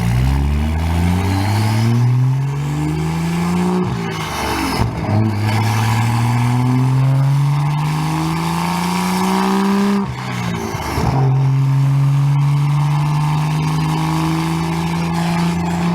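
BMW 340i's first-generation B58 turbocharged inline-six with a single-exit exhaust, accelerating through the gears. The engine note climbs steadily, drops at an upshift about four seconds in, climbs for a longer pull, drops again about ten and a half seconds in, then climbs toward another shift near the end.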